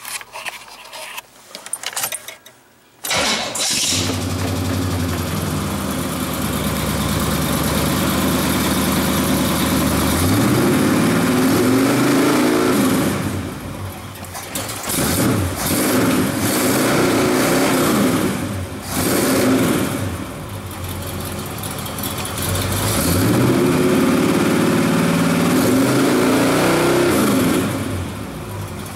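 Carbureted Chevrolet small-block V8 of a C3 Corvette catching and starting about three seconds in, then running. It is revved up and let back down several times.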